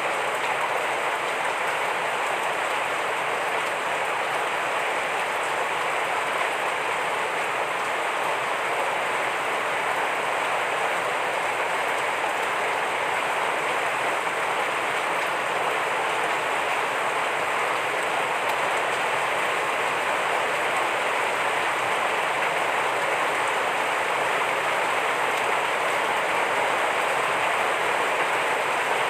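Heavy rain falling steadily, a dense, even wash of drops with no let-up.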